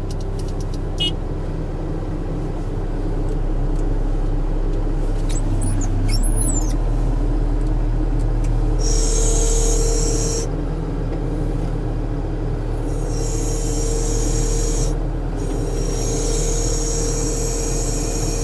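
New Holland C232 track skid steer's diesel engine running steadily under load, with a higher hiss and whine coming in about halfway through, dropping out, and returning near the end as the machine works a round hay bale.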